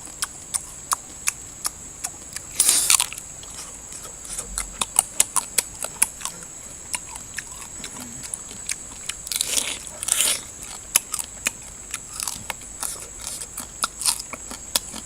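A person chewing and biting barbecued meat close to the microphone: irregular crunching clicks, with a couple of longer, louder crunches. A steady high tone runs underneath.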